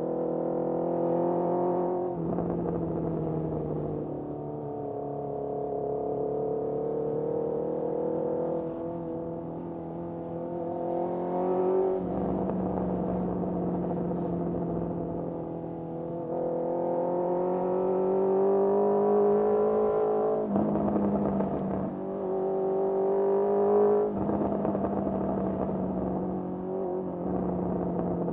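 Honda CBR650R's inline-four engine through a Mivv MK3 carbon exhaust, heard while the bike is ridden. The pitch climbs steadily under throttle, then drops or jumps abruptly several times as the rider shifts gears or rolls off the throttle.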